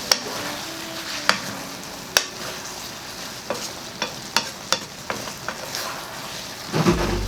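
Chicken in a thick, cornstarch-thickened sweet and sour sauce sizzling in a pan as it is stirred, with a utensil knocking sharply against the pan several times.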